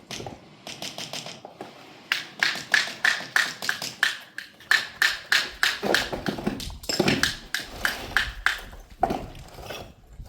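A quick, regular series of sharp, ringing taps, about three a second, louder from about two seconds in and stopping shortly before the end.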